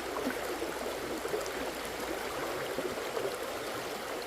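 Flowing stream water: a steady, even rush with no clear single events.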